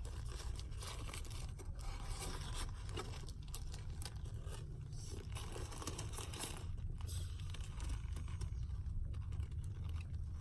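Sandwich wrapper crinkling and rustling as it is handled and opened, with irregular scraping and crackles over a steady low hum.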